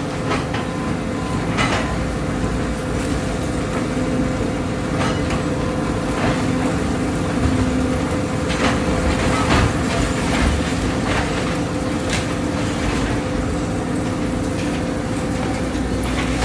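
Excavator demolishing a house: its diesel engine runs steadily under load, with frequent short knocks and cracks of debris being broken and dropped.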